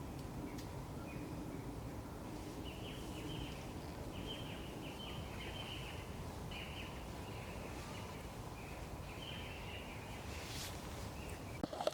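Forest ambience: a steady low background noise, with a bird giving short chirping calls over and over. A sharp knock comes right at the end.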